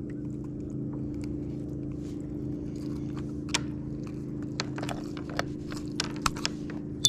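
Scattered clicks and light knocks as a freshly landed smallmouth bass is handled in a kayak, getting busier about halfway through, over a steady low hum.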